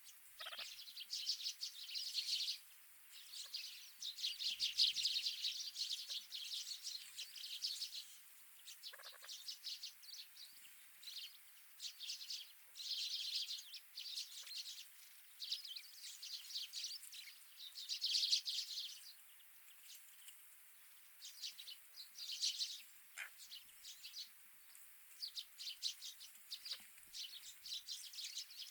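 Wild winter birds at a feeder chirping and twittering, many short high calls coming in clusters every second or two.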